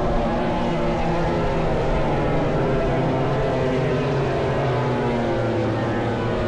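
MotoGP race bikes' 1000 cc four-cylinder engines running at high revs on the circuit, several engine notes overlapping and rising and falling slightly as they go.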